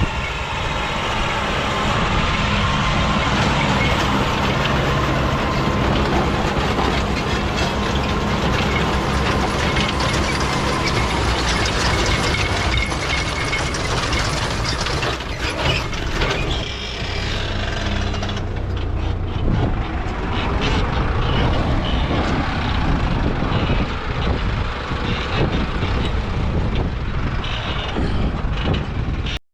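Combine harvester at work, its engine running steadily under a dense mechanical clatter. The higher clatter eases somewhat about two-thirds of the way through while the engine hum carries on.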